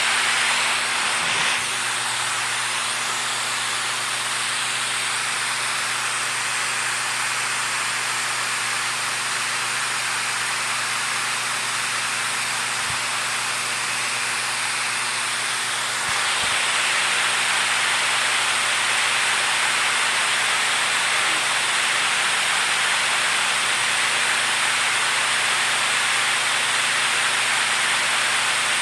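Steady rushing of flowing water in a forest, an even hiss without a beat, growing slightly louder about halfway through.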